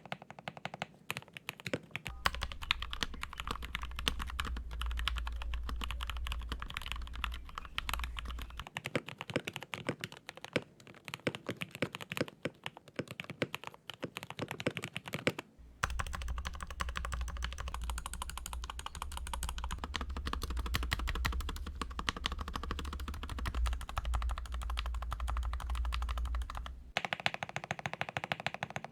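Continuous fast typing on a Keychron K8 mechanical keyboard fitted with lubed Gateron Yellow linear switches, tuned Durock plate-mount stabilizers and foam and tape dampening mods, giving a dense run of key clacks.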